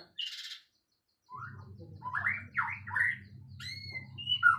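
Songbird chirping. A short raspy burst comes at the start, then after a brief gap a run of quick chirps and calls, over a steady low hum.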